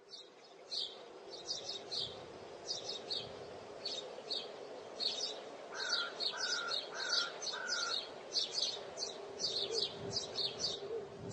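Small birds chirping: many short, high chirps in quick irregular clusters, with another call of four evenly spaced lower notes in the middle, over a steady low outdoor hum.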